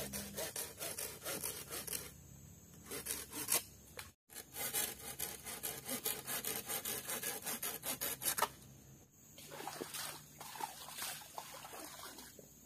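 Wood being sawn by hand in quick, even back-and-forth strokes, about five a second, with a brief break about four seconds in. The steady strokes stop a little over halfway through and give way to a few seconds of looser scraping.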